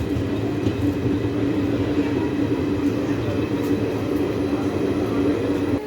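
Passenger train running along the track: a steady rumble with a constant droning hum.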